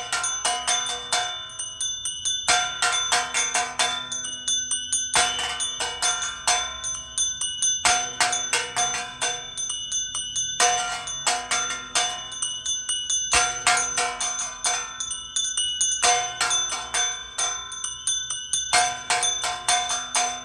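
Church bells of Salta Cathedral's bell tower pealing: many rapid strikes over one another, ringing on, with a pattern of louder strike groups recurring every two to three seconds.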